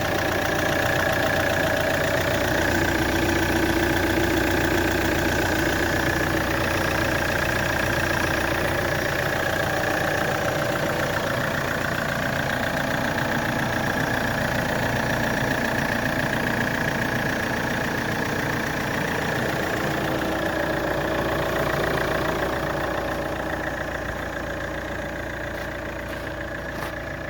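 2008 Vauxhall Antara's 2.0 CDTI four-cylinder diesel engine idling steadily, growing gradually quieter over the last few seconds.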